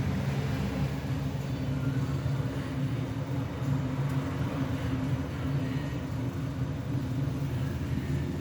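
Steady low mechanical hum of a running engine or motor, with no change in pitch or level.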